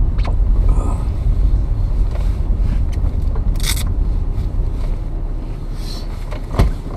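Car interior noise while driving: a steady low rumble of engine and road that eases slightly. There is a sharp click about halfway through and a thump near the end.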